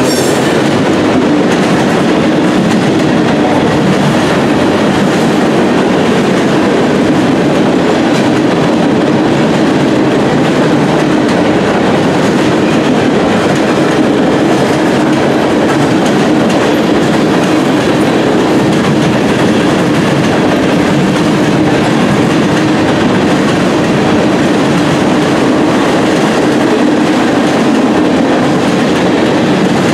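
Freight cars of a mixed manifest train (covered hoppers, boxcars, tank cars) rolling past at speed: a loud, steady rumble of steel wheels on the rails, with the clickety-clack of wheels over the rail joints.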